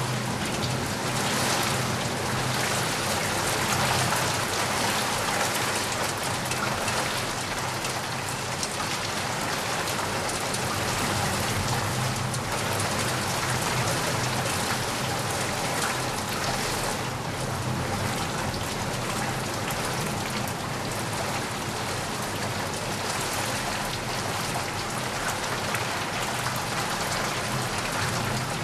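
Steady rainfall: an even hiss of many drops on a surface, holding at one level.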